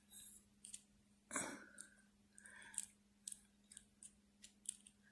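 Faint scattered clicks and light rubbing of a plastic action figure and its blaster accessory being handled, with a slightly sharper click near the middle.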